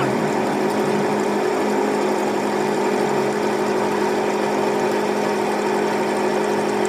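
A workshop machine running steadily with a constant hum.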